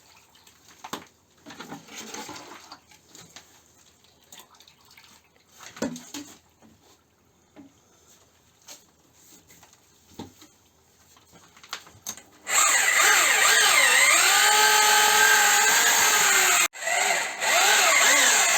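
Electric drill with a paddle mixer churning tile adhesive, starting about two-thirds of the way in. Its motor pitch sags and recovers under the load of the thick mix. It stops for a moment near the end and starts again. Before it there are only faint scattered knocks and scrapes.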